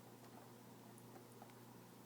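Near silence with faint, scattered clicks of a guinea pig chewing a snack, over a steady low hum.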